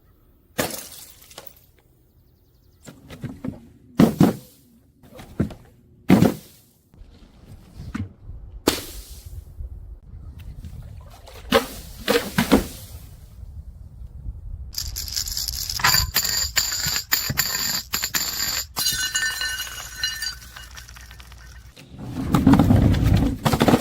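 Glass breaking in a series of separate sharp crashes, some with crunching tails. In the second half, high ringing tones with scattered clicks, then a loud, heavy low crunch near the end.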